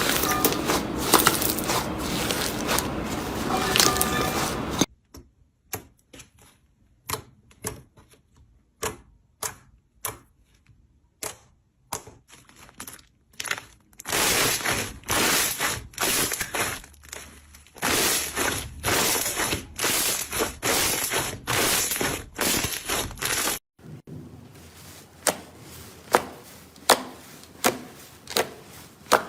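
Slime being squeezed and poked by hand, making crackling and popping sounds. There is dense crackling for the first few seconds, then sparse sharp pops, then a run of about ten squishing strokes roughly one a second, then sharp pops again.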